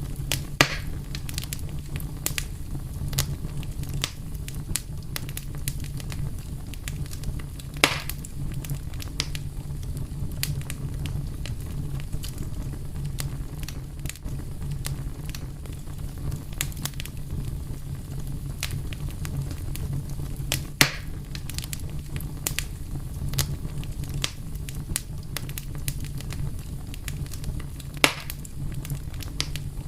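Fire crackling over a steady low rumble, with a constant scatter of small snaps and four louder pops: about a second in, about a quarter of the way through, about two thirds through, and near the end.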